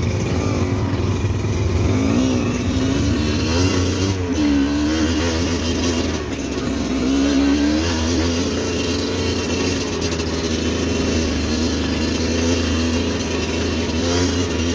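Motorcycle engine running continuously, its pitch rising and falling several times as the throttle is opened and eased off, over a steady rushing noise.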